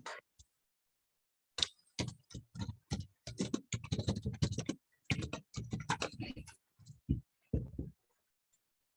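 Computer keyboard typing and clicking: a rapid, uneven run of key clicks starting about one and a half seconds in and stopping near the end, picked up by a laptop microphone on a video call.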